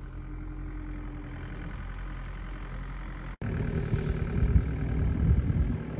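Engine of a snow-clearing machine running steadily. After a sudden break about three and a half seconds in, it comes back louder and rougher as the machine works, carrying off big scoops of snow.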